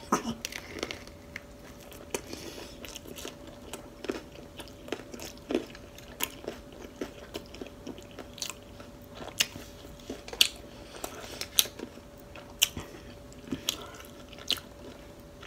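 Close-miked chewing of a soft flour-tortilla chicken taco: a bite, then wet mouth clicks and smacks at an irregular pace, a few sharper ones standing out in the second half.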